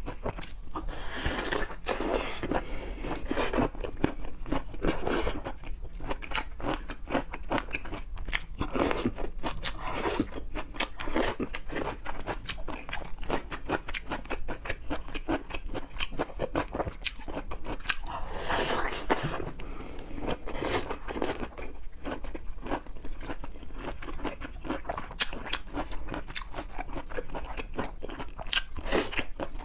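Close-miked eating sounds of seafood: chewing and crunching, made up of many short, irregular clicks and bursts.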